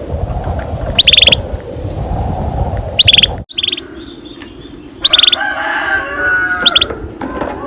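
Canary singing in short, loud bursts, each a quick falling sweep into a fast trill of repeated high notes, four times over a steady low background noise.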